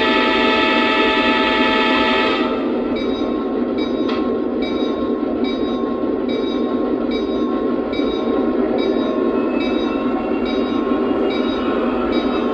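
The Lionel Legacy SD70MAC model's sound system sounds its diesel horn, which cuts off about two and a half seconds in. The diesel engine sound then runs on as the locomotive gets under way, with a light regular pattern and a faint whine that rises near the end. It plays through the model's small speaker, so it sounds thin, with no deep bass.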